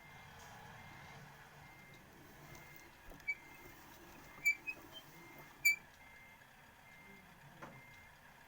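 Car's reverse parking sensor beeping steadily, short beeps a little more than one a second. A few louder, sharper chirps sound about halfway through.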